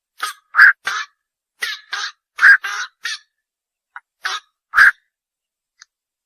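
Night heron giving short, harsh squawking calls in small clusters, about ten in all, with the loudest about a second, two and a half seconds and nearly five seconds in. The calling pauses for the last second or so.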